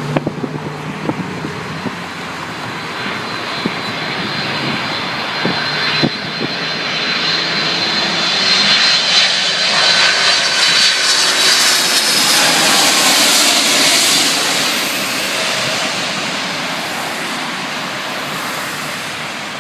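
Airbus A310 twin-engine jetliner on landing approach passing the listener: turbofan noise swells to a peak about halfway through, then slowly fades, with a high engine whine over the first several seconds.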